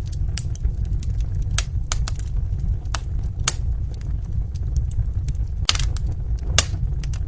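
Wood fire burning in a fireplace, crackling with irregular sharp pops over a steady low rumble. There is a quick cluster of pops a little before the end and one louder pop shortly after.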